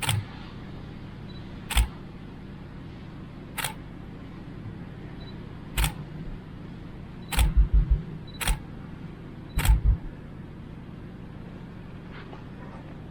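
A series of sharp clicks at irregular intervals, several joined by dull low thumps, bunched together about seven to ten seconds in, over a steady low background hum.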